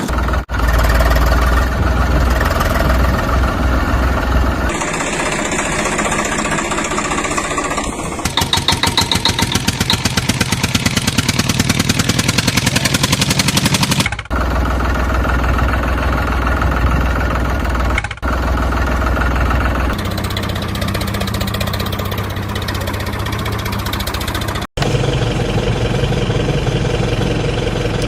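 Tractor engines running, in several abruptly cut segments. The middle stretch has a steady chugging of about five beats a second.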